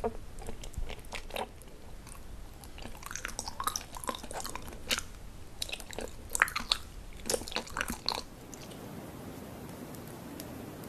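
Close-miked biting and chewing of gummy candy: a run of short, sharp, wet clicks, thickest in the last few seconds before they stop about 8 seconds in. A steady faint hiss follows.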